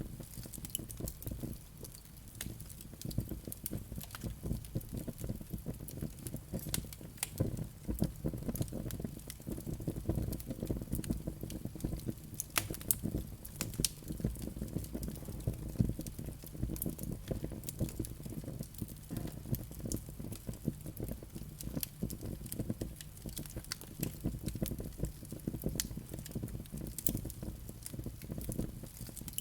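Wood fire burning, with frequent irregular crackles and sharp pops over a low steady rumble of the flames.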